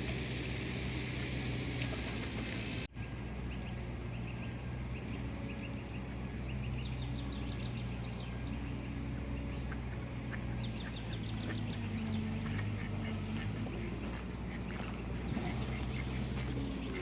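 Birds calling in clusters of short, rapid rasping notes, over a steady low hum.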